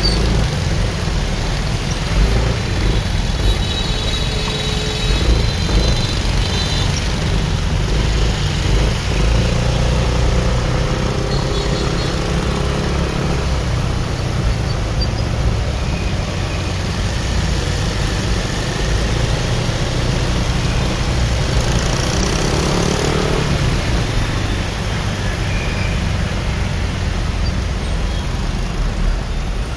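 Motorcycle ride through city traffic heard from the rider's position: steady wind rumble on the microphone over the hum of the bike's engine and surrounding motorbikes and cars, with a few brief higher sounds from passing traffic.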